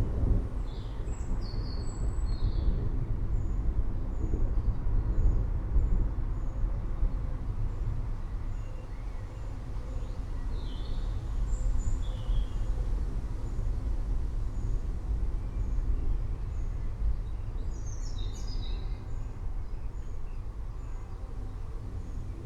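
Low rolling rumble of distant thunder, loudest in the first several seconds and easing off, with birds chirping briefly a few times over it.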